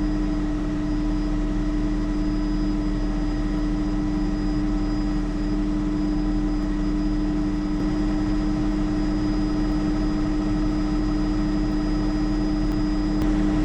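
Bell JetRanger helicopter in steady cruise flight: an even drone of its turboshaft engine and rotors, with several steady whining tones held unchanged throughout.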